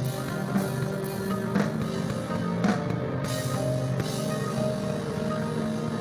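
Instrumental psychedelic rock band playing: held guitar notes over drum kit and cymbal hits, the drums dropping out about three seconds in and leaving the sustained guitar tones ringing on.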